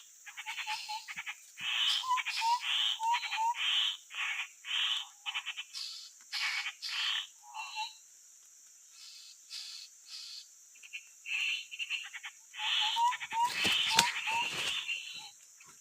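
Grey-headed babblers calling: bouts of harsh, rattling chatter notes mixed with short rising whistles, with gaps between bouts. A sharp click about 14 seconds in is the loudest sound.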